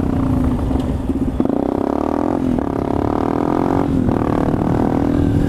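Motorcycle engine running hard under way, its note shifting in pitch, with two brief dips about two and a half and four seconds in.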